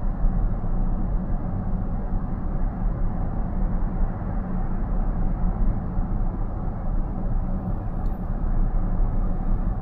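Steady tyre and road noise heard inside a car's cabin at highway speed, a low, even rumble.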